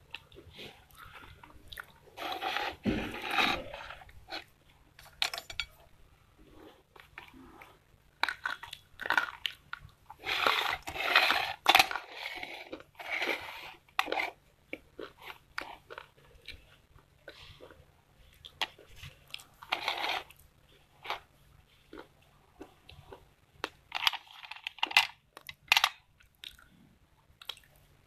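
Close-up biting and chewing of something hard and brittle, crunching in irregular bursts with quieter pauses between.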